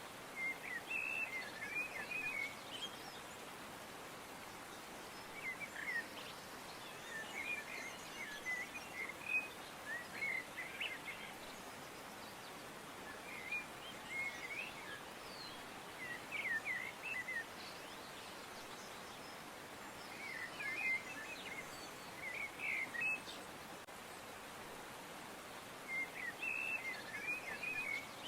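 Songbirds chirping in short clusters of quick notes that recur every few seconds over a steady background hiss.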